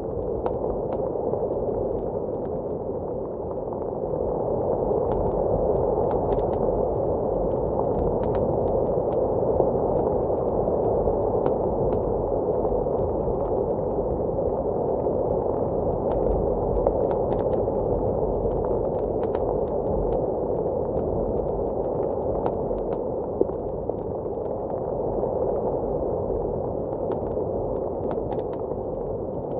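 Blizzard wind blowing as a steady, dull rush that swells a few seconds in. Over it, a wood fire crackles with scattered sharp pops.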